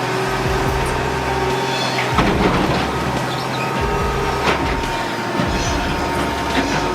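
Heavy machinery running steadily, with high metallic squealing tones and a few sharp clanks, around two and four and a half seconds in.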